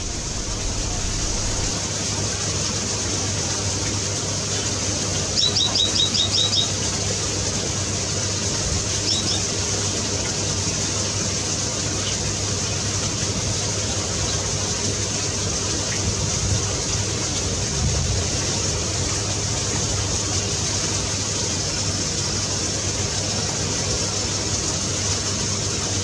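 A small bird gives a brief, rapid trill of high, evenly repeated notes about five seconds in, then two short notes a few seconds later. A steady hiss and low hum run underneath.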